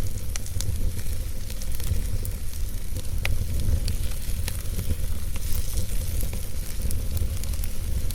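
Fire burning in a fireplace: a steady low rumble and hiss with frequent small crackles and pops, one sharper pop about three seconds in.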